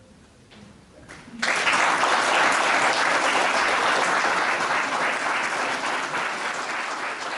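Audience applause for a choir, starting abruptly about a second and a half in after a brief quiet, then slowly fading.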